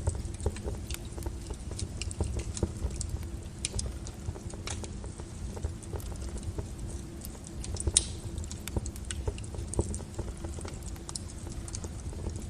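Wood fire burning in a fireplace, crackling and popping irregularly over a low rumble, with one louder pop about eight seconds in.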